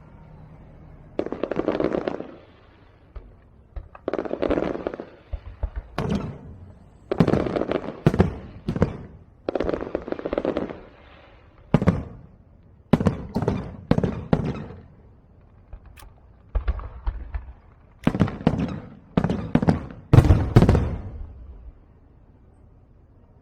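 Fireworks going off in a series of about a dozen separate bursts, each a short boom with crackle, a second or two apart, with the loudest burst near the end.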